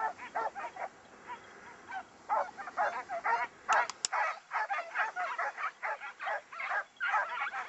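A pack of scent hounds baying and yelping in quick, overlapping barks as they give tongue on a hare's trail. The calls are sparse at first and grow dense from about two seconds in.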